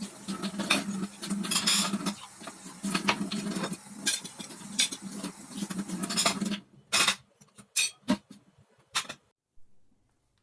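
Dishes and cutlery clattering and clinking, busy for the first six seconds or so, then a few separate clinks.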